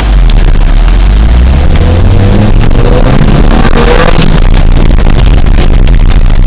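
Toyota Tercel's four-cylinder engine revving hard as the car accelerates into a drift on wet grass, climbing in pitch for the first few seconds. The sound is loud, with a heavy low rumble that overloads the recording.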